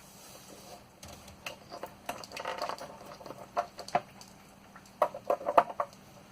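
Handling noise: a run of light clicks and knocks, bunched about two seconds in and again around five seconds in, over a faint steady hum.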